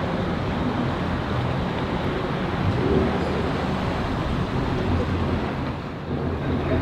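Steady engine rumble mixed with wind noise.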